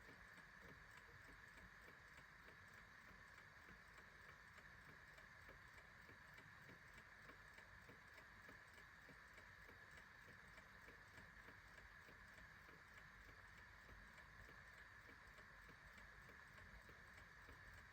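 A clock ticking faintly and steadily.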